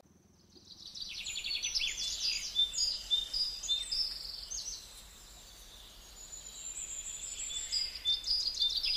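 Several forest birds singing and chirping: high quick trills and short whistled notes that fade in over the first second, thin out midway and pick up again near the end.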